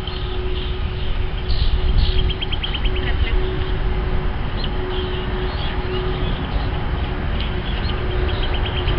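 Steady low rumble of a jet airliner's engines overhead, with a steady hum held at one pitch. Small birds chirp over it, with two quick rapid trills, about two seconds in and near the end.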